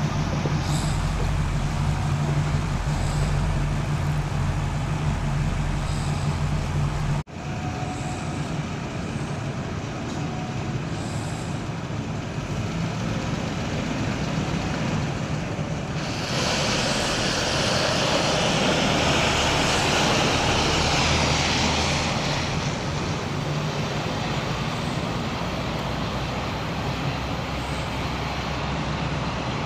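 1953 Buick Special's 263 cubic-inch Fireball straight-eight idling steadily, heard close to the tailpipe. After a sudden cut about seven seconds in, the car is driven slowly, its engine and tyres louder and hissier for several seconds in the middle as it passes close by.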